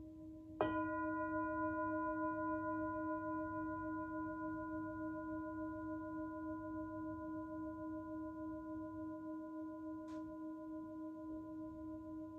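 Himalayan singing bowl struck once, about half a second in, over the fading ring of an earlier strike. It then rings on with a low tone and several higher overtones, pulsing slowly as it gradually fades. A faint click sounds about ten seconds in.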